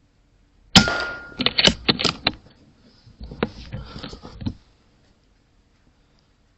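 .22 air rifle shot: a sudden sharp crack with a brief ringing tone, followed by a quick run of clicks and rattles, then a second cluster of clicks and scuffling noise a couple of seconds later.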